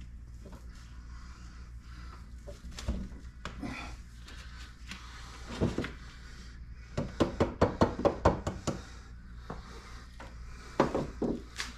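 Engine parts being handled and fitted on a workbench: scattered knocks and clicks, with a quick run of about ten light taps past the middle and a few more knocks near the end, over a steady low hum.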